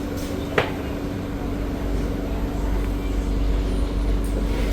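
Inside a C151B metro train: a steady low rumble with a constant hum, and a single sharp click about half a second in.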